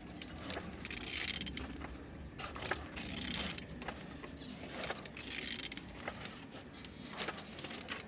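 Renault K9K diesel engine being turned over by hand, with ratcheting clicks and the internals turning in repeated strokes about every two seconds. It turns freely.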